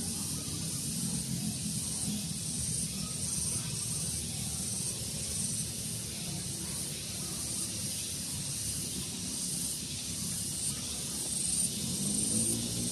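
Daytime outdoor ambience: breeze on the microphone as a steady low rumble under a steady high hiss that pulses faintly about twice a second. Near the end a low pitched hum begins to rise in.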